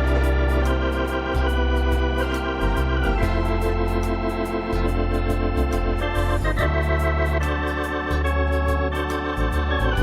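Christmas music played on a Lowrey electronic organ: held chords over deep bass pedal notes, with a light ticking rhythm accompaniment about three times a second.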